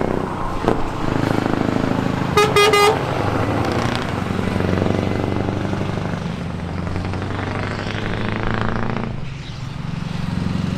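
Scania R500 V8 truck engine running through an open-pipe exhaust, its deep tone shifting a little in pitch. About two and a half seconds in, a horn gives a short double toot.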